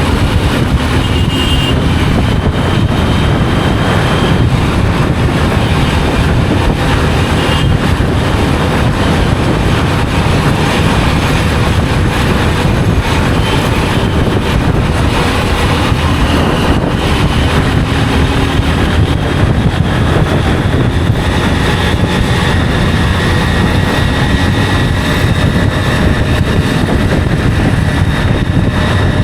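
Motorcycle riding at speed: steady loud wind rush on the microphone over the engine's running.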